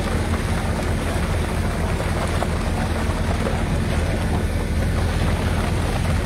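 Steady low drone of construction machinery engines running, under a constant rushing noise.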